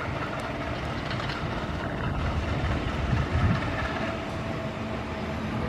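Train on the move: a steady low rumble, with a couple of heavier thumps about three seconds in.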